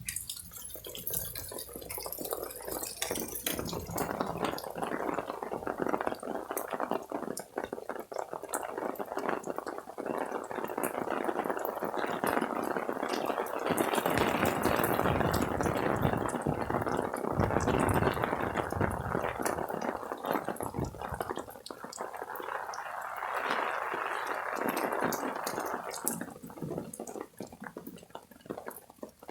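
Rainwater running and splashing, swelling and easing in a steady wash, with many small drips and patters.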